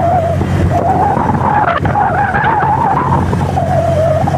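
Motorbike on the move, its engine running with a steady low hum and a wavering whine, mixed with road and wind noise.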